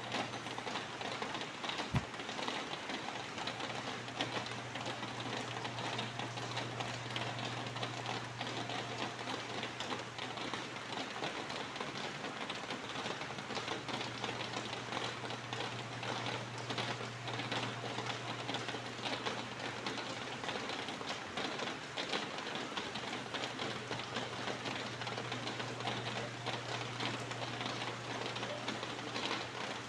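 Steady rain, a dense even spread of fine drop ticks, over a continuous low hum. A single sharp click about two seconds in.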